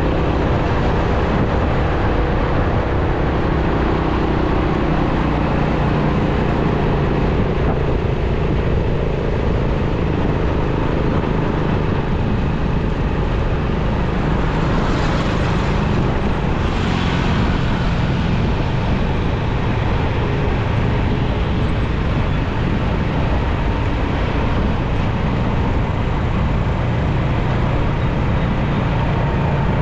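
Motorcycle riding in city traffic: the bike's engine runs steadily under wind and road noise, with the sound of surrounding traffic. Two short hissing sounds come about halfway through.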